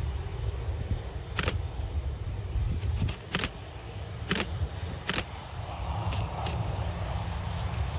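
A camera shutter clicking about eight times in single, unevenly spaced shots, over the steady low rumble of a Boeing 737's jet engines.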